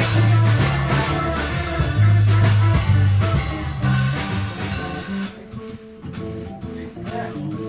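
Jazz organ trio of organ, six-string Bass VI and drum kit playing live. About five seconds in the full sound thins out and gets quieter, leaving plucked string notes and sparse drum hits.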